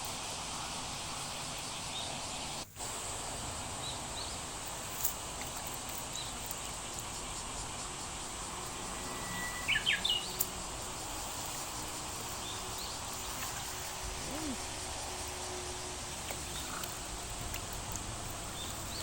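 Steady outdoor background hiss with insects, and a brief run of bird chirps about ten seconds in. The sound cuts out for an instant about three seconds in.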